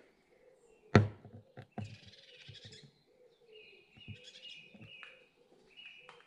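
Birds chirping in short repeated high notes, in two runs in the second half. A single sharp knock about a second in is the loudest sound, with a softer knock shortly after.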